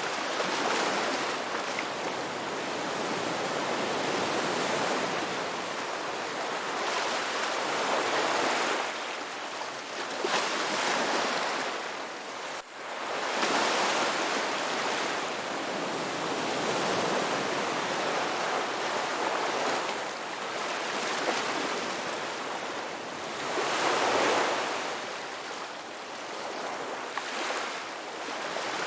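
Ocean surf washing onto a beach: a continuous wash of waves that swells and falls every few seconds, with a momentary drop in level about halfway through.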